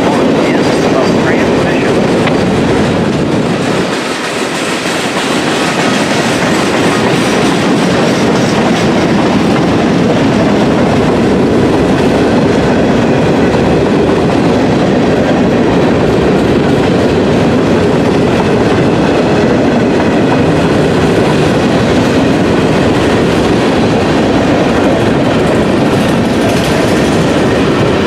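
Freight train cars rolling past on the rails, a loud steady rumble of wheels on track, with a brief dip in level about four seconds in.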